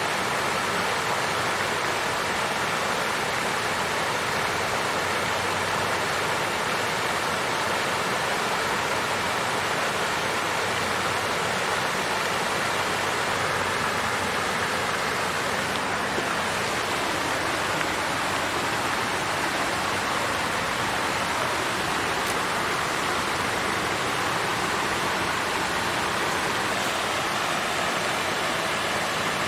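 Water fountain flowing steadily: a constant splashing rush of falling water with no breaks.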